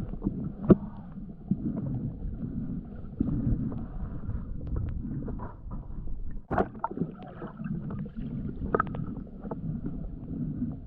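Muffled underwater rumbling and gurgling of a diver moving in the water, as heard through a camera's waterproof housing, with a few sharp knocks and clicks, the loudest about six and a half seconds in.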